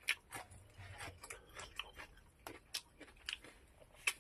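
A person chewing a mouthful of ginger slices: soft, irregular mouth clicks and smacks.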